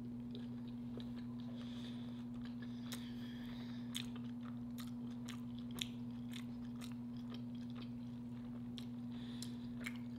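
Close-miked chewing of a bite of chili cheese hot dog: many small wet mouth clicks and smacks. A steady low hum runs underneath.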